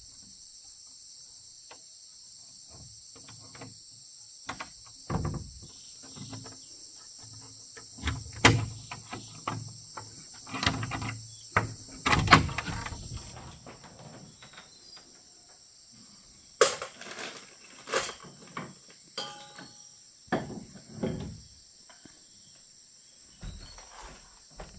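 A steady high chorus of insects, with irregular knocks, thuds and clatters from work or handling things in between, the loudest about eight and twelve seconds in.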